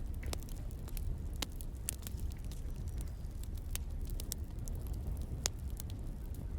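Wood fire burning: a low steady rumble with irregular sharp crackles and pops.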